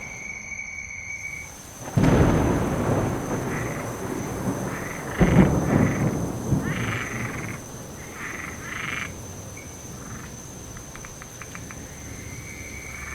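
Thunder cracks sharply about two seconds in and again a few seconds later, over steady rain. Frogs croak in short repeated runs after the first crack.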